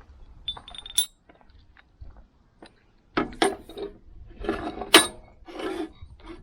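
Small metal parts and tools clinking and rattling as they are handled, with a sharp ringing clink about a second in and a busier clatter in the second half.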